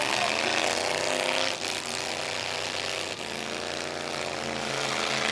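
Demolition-derby pickup truck engines running and revving, the pitch shifting as the drivers work the throttles.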